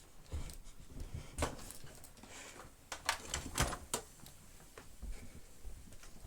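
A few scattered light knocks and clicks as things are handled and set down.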